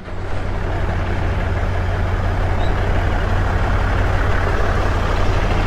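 A heavy engine running steadily, with a strong low hum that builds slightly during the first second and then holds even.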